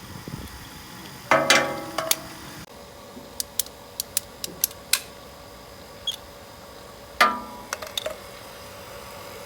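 Metal tools or parts clanking while being handled: a loud ringing clank about a second and a half in, a quick run of sharp clicks, and another ringing clank near the end. A faint steady hum runs under the second half.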